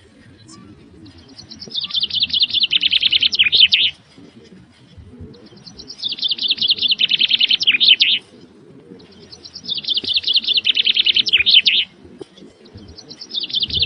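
A songbird singing the same short phrase over and over, about every four seconds: a few thin high notes, then a rapid run of loud notes that drops a little and ends in a flourish. Three full phrases are heard, and a fourth begins near the end, over a low rumble of background noise.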